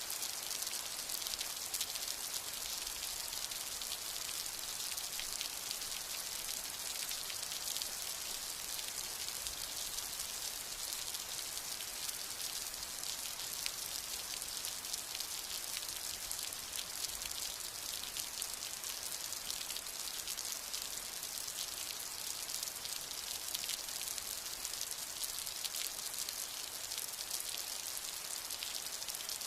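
Steady rain falling, the hiss of the downpour thick with the crackle of countless individual drops striking, level and unbroken without thunder.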